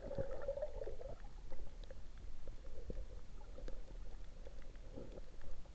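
Water gurgling and bubbling as heard underwater, loudest in the first second, with scattered faint clicks over a steady low rumble.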